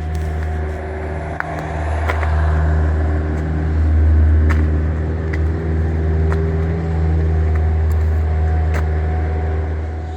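A motor vehicle engine running steadily: a loud, low, even hum with a few faint clicks over it.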